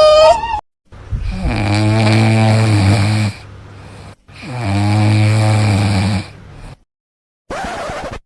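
A pet snoring: two long, deep snores, each about two seconds, with a short fainter sound near the end. A high, sliding dog whine cuts off just at the start.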